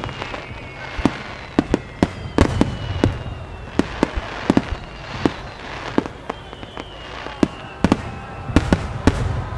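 Starmine firework barrage: a rapid, irregular string of sharp bangs from bursting aerial shells over a low rumble, with high whistles gliding slowly down in pitch.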